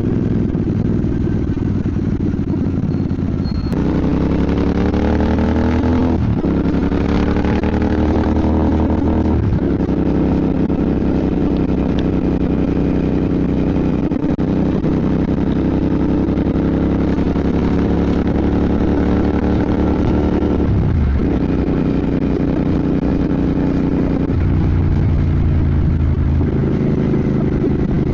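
Royal Enfield Bear 650's parallel-twin engine riding under way. About four seconds in its pitch rises as the bike accelerates, with gear changes about six and nine seconds in. It then holds a steady cruising note, dipping briefly just past twenty seconds.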